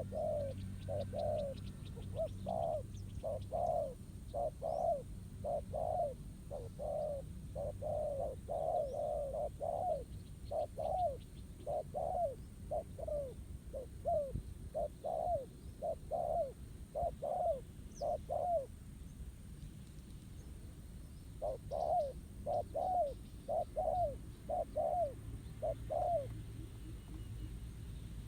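Spotted doves cooing in a quick run of short, low notes, stopping for a few seconds partway through and then starting again. This is the 'gù' cooing of a wild dove squaring off against a decoy dove. Faint chirps of small birds can be heard in the background.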